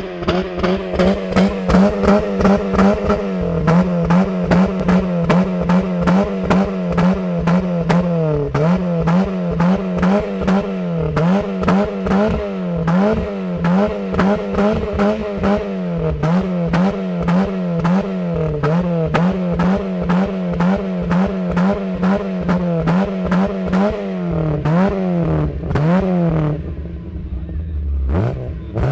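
Peugeot 306 1.6 four-cylinder petrol engine, breathing through a full-flow exhaust with a Sebring rear silencer, revved over and over in quick throttle blips. Sharp backfire pops and crackles come out of the exhaust as the revs fall. Near the end the revs drop away briefly, then rise once more.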